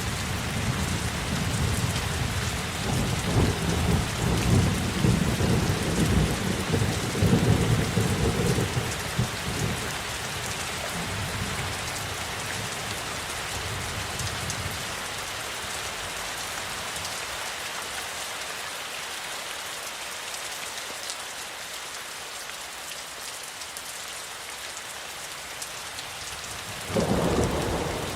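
Steady rain with a long roll of thunder over the first ten seconds or so that slowly dies away, then a sudden new thunderclap near the end. The thunder is the loudest part.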